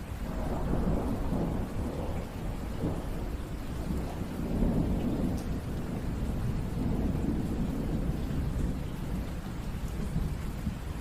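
Steady rain falling, with a long low rumble of thunder that sets in right at the start and rolls on in swells.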